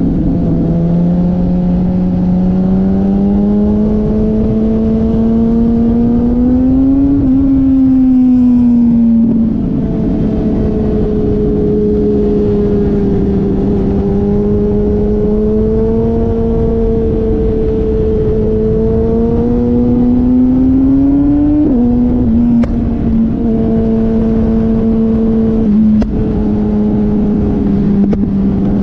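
Motorcycle engine running under way, its pitch climbing slowly and then dropping at a gear change about nine seconds in and again about twenty-two seconds in, over steady wind noise.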